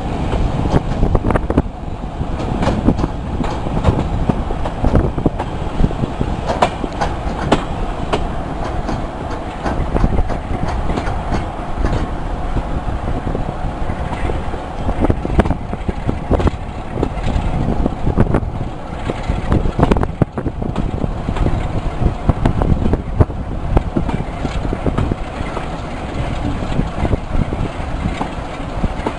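Diesel-hauled heritage train running at speed, heard from a coach window: a steady rumble with the wheels clicking irregularly over rail joints.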